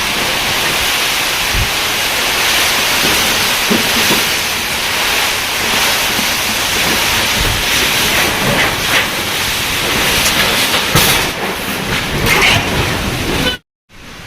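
Heavy rain pouring down in a wind storm, a loud steady hiss with a few low thumps. It cuts off suddenly near the end.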